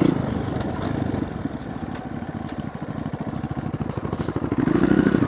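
Dirt bike engine running under way, its revs dropping just after the start and picking up again about four and a half seconds in.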